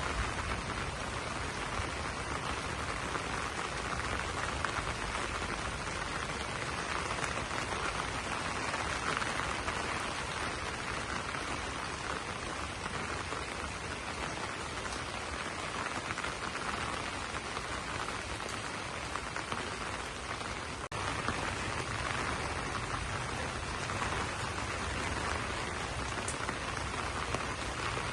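Steady rain pattering on broad banana leaves, an even dense hiss of drops, with a split-second break about three quarters of the way through.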